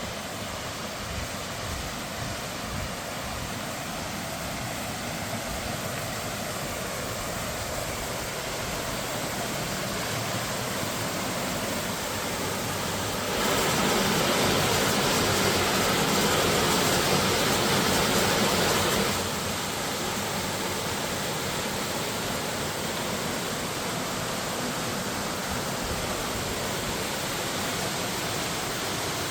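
Waterfall: falling water making a steady rushing hiss that jumps louder for about five seconds midway, then drops back.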